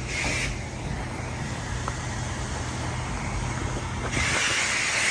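Car engine idling with a steady low rumble, under the hiss of a coin-op car-wash pressure wand spraying; the spray drops away about half a second in and starts again about four seconds in.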